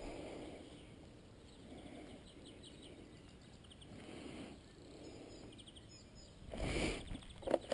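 Faint bird chirps over low outdoor noise, with a louder scuff or knock near the end.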